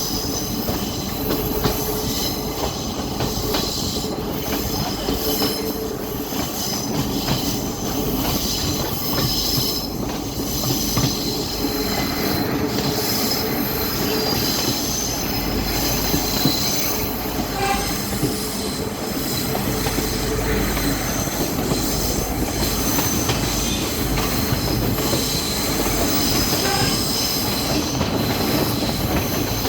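Train running along the track with a steady rumble and a continuous high-pitched squeal of the wheels against the rails.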